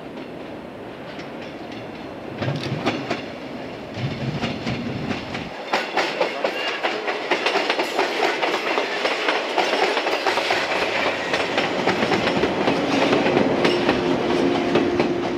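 Yellow electric multiple-unit train approaching and running past close by, growing louder throughout, its wheels clattering over the rail joints in a quick, regular clickety-clack, with a steady hum near the end.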